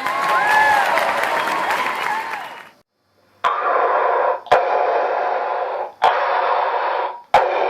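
Loud hissing noise with a few whooping pitch glides in it, cut off suddenly after nearly three seconds; after a brief silence, a steady static-like hiss returns in stretches split by sharp clicks about every second and a half.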